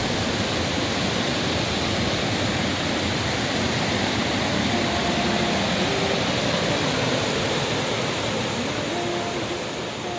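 Large waterfall rushing, a steady, dense noise of falling water.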